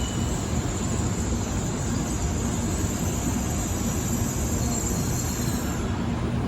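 Shinkansen bullet train passing at high speed: a steady loud rush of wheels on rail and air, with a high hiss that drops away about six seconds in.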